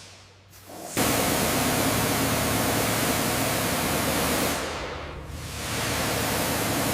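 Pressure washer spraying grease off, with the spray cutting in abruptly about a second in, easing off briefly around five seconds, then spraying on steadily.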